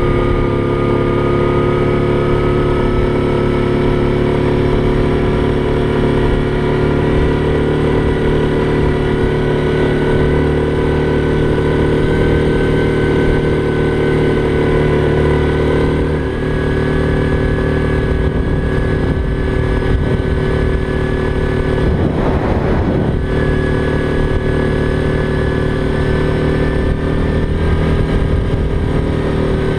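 ATV engine running at a steady, moderate speed while riding, its pitch shifting only slightly, with a brief rush of noise about two-thirds of the way through.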